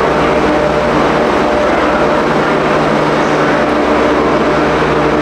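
A train running steadily at the station, a loud constant engine drone with a held hum over broad rumbling noise.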